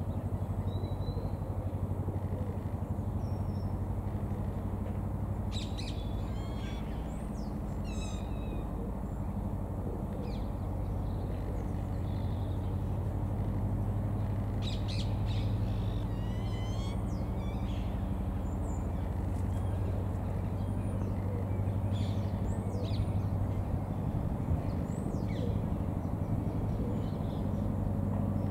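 Small birds chirping and trilling in a few short runs of high calls over a steady low hum.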